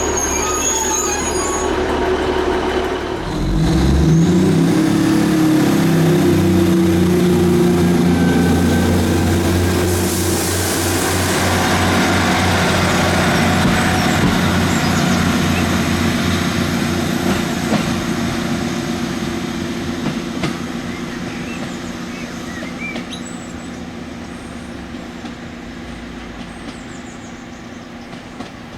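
Diesel train engine running steadily. About three seconds in it revs up, its note rising as the train gets under way, and it stays loud with a brief hiss about ten seconds in. It then fades away over the second half.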